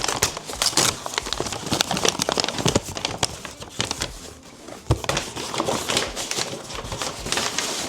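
A bag being handled, rustling and crinkling in a dense, irregular run of crackles.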